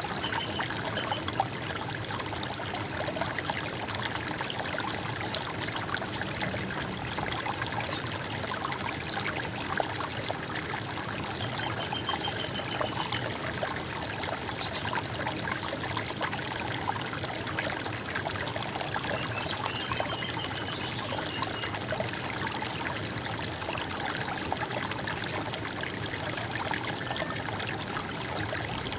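Running water trickling and splashing steadily, with a few faint short bird chirps over it.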